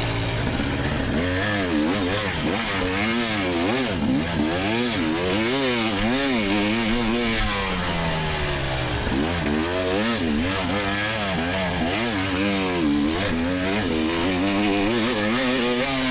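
2024 GasGas EX300's 300 cc single-cylinder two-stroke engine revving under hard riding. Its pitch rises and falls over and over as the throttle is worked on and off.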